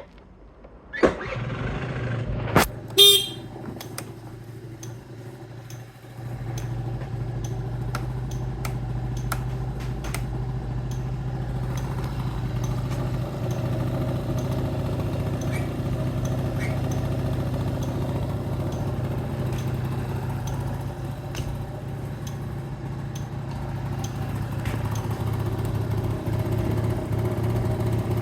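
Honda Live Dio AF35 scooter's 50cc two-stroke engine starting about a second in, with a short horn beep about three seconds in. The engine then idles steadily, a little louder from about six seconds on.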